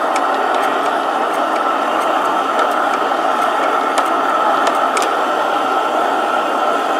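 Burner heating the hot bulb of a four-stroke hot-bulb engine, running with a steady hissing rush, with a few faint ticks over it.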